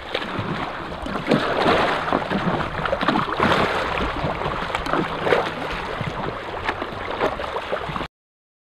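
Sea water sloshing and splashing, with many small irregular splashes over a steady wash of water and wind noise. It cuts off abruptly near the end.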